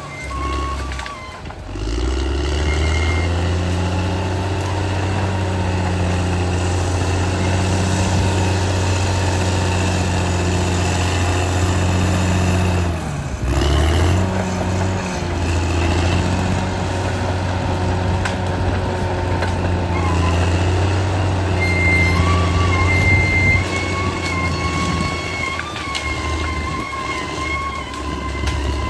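Caterpillar D6R XL bulldozer's diesel engine running steadily under load, with a thin high whine over it. The sound drops out briefly twice, about a second and a half in and again near the middle.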